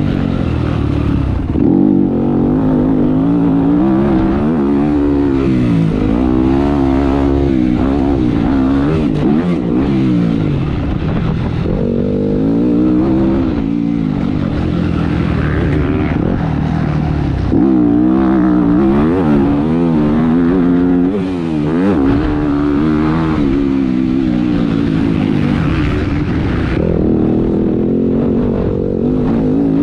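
Motocross bike engine running hard under a rider, its pitch repeatedly climbing and dropping as the throttle opens and closes, with wind noise underneath.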